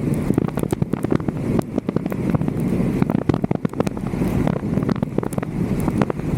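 Wind rushing over a roof-mounted camera's microphone, with many irregular sharp ticks of raindrops striking the camera during a thunderstorm.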